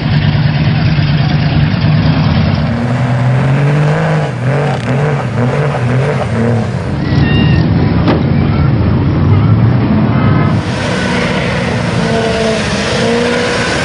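Loud truck engines revving, their pitch rising and falling.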